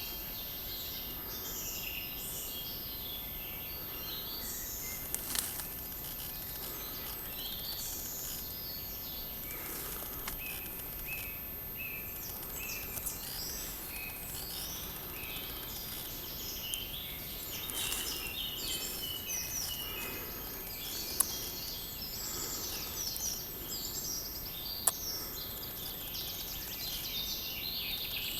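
Several songbirds singing and calling in a summer forest, a busy overlapping chorus of short high chirps and trills. A few sharp clicks stand out, the loudest two near the end.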